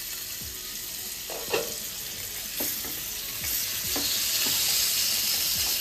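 Whole pointed gourds (potol) sizzling as they shallow-fry in oil in a nonstick kadai, with a few light knocks of a spatula against the pan as they are turned. The sizzle grows louder in the second half.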